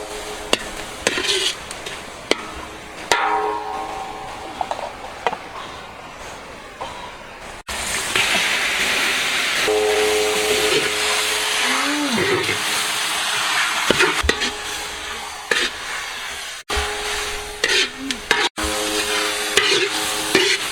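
Food frying in a pan with a steady sizzle and the scrape of stirring, heaviest in the middle stretch, with background music over parts of it.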